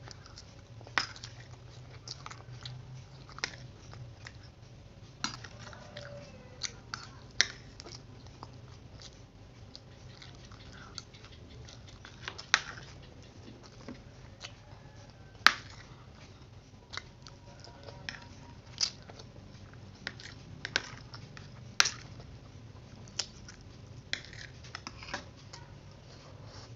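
Close-up chewing of fried instant noodles, with irregular sharp clinks of a metal spoon and fork against the plate.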